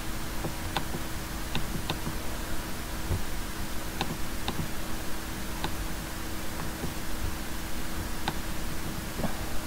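Computer mouse clicking now and then, a few scattered single clicks, over steady microphone hiss and a faint low hum.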